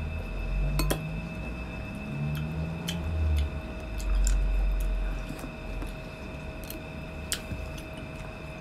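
Close-up chewing of seedless Muscat grapes: soft low mouth sounds and a few short low hums, with scattered small wet clicks and smacks.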